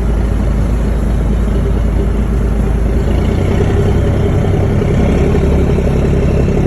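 Fishing boat's engine running steadily with a low hum and a steady droning tone; the deepest part of the rumble shifts a little partway through.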